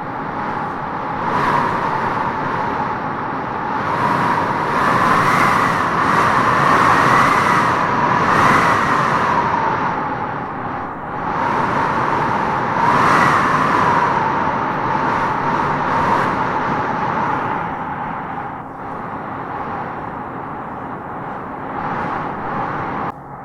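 Howling wind blowing in gusts: a steady rush with a whistling howl that rises and falls in pitch. It swells strongest about a third of the way in and again around the middle.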